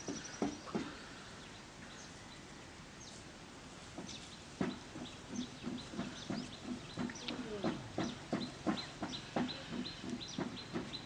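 Birds calling: short low clucks, sparse at first and then in a quick run of several a second from about four and a half seconds in, with short high chirps above.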